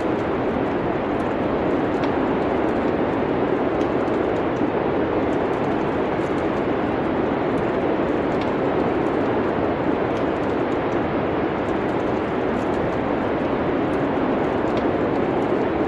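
Steady rushing wind of a snowstorm, with faint scattered crackles of a wood fire.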